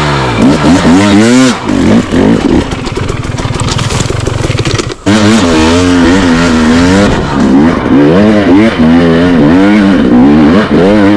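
Dirt bike engine revving hard and unevenly, its pitch rising and falling every second or so as the throttle is worked, with a brief drop about five seconds in.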